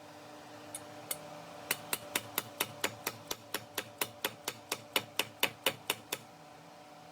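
Hammer lightly tapping a bearing and seal driver, seating a new tail shaft bushing in a Ford toploader four-speed transmission. Two single taps, then a steady run of about four or five taps a second that stops about six seconds in.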